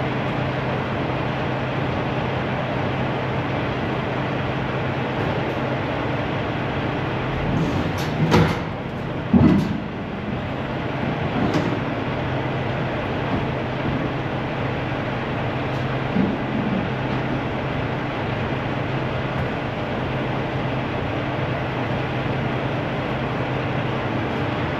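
Steady idle of a semi truck's diesel engine. A few clunks and rattles come about eight to ten seconds in, and one more shortly after.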